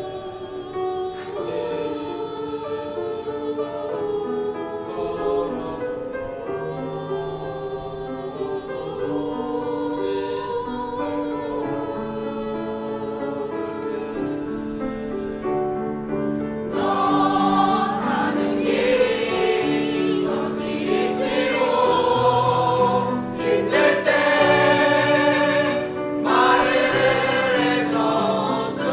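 A choir singing, the voices growing louder and fuller about two thirds of the way through.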